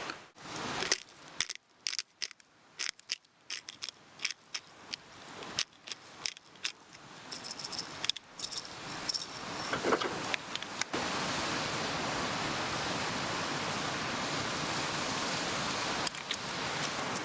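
Sharp metallic clicks and clinks of cooking utensils being handled, a dozen or more separate strikes. About eleven seconds in they stop and a steady rush of a mountain stream takes over.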